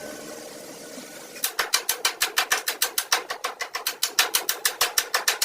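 A fast, even run of sharp taps or clicks, about eight a second, starting about a second and a half in.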